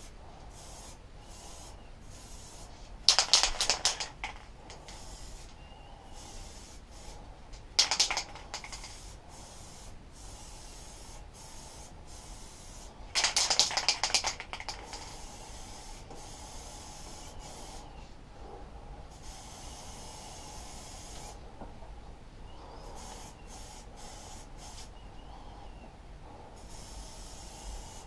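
Aerosol can of metal paint spraying in three bursts, about a second long each, a few seconds apart, as a coat is laid on metal handlebars.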